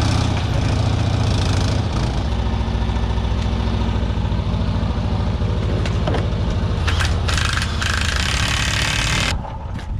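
A vehicle engine running steadily with a low, even pulse. It cuts off abruptly about nine seconds in.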